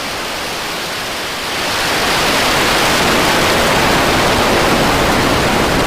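Rocket engine noise from Starship SN10's three Raptor engines just after liftoff: a loud, steady rushing noise that swells about one and a half seconds in.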